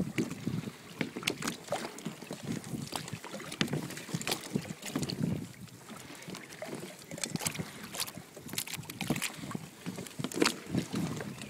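Water slapping and lapping against a fishing kayak's hull, with irregular small knocks and clicks throughout.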